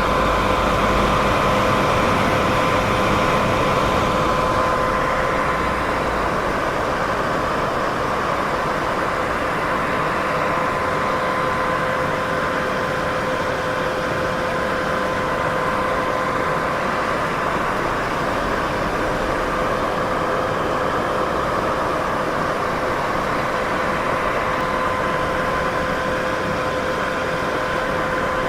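Continuous white noise for sleep masking: an even, unchanging hiss, fullest in the middle range, with a faint steady hum tone under it.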